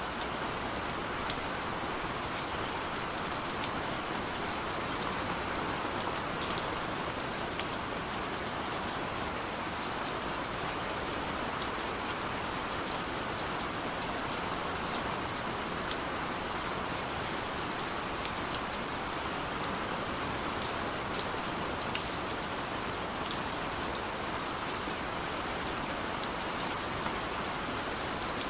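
Heavy rain falling steadily, an even hiss with scattered sharp ticks of single drops striking.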